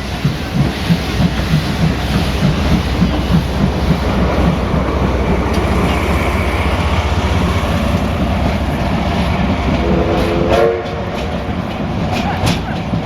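C11 325 tank steam locomotive pulling away under power: its exhaust beats come in a quick, regular rhythm and blur into a continuous rush as it gains speed. A short whistle sounds about ten seconds in, and there is sharp clattering near the end.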